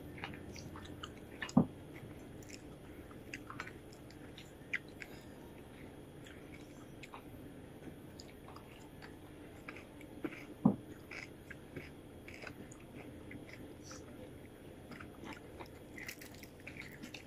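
Faint eating sounds: a person biting and chewing crispy fried fish and lettuce, with many small crunchy ticks. Two sharper knocks stand out, one about a second and a half in and one a little past the middle.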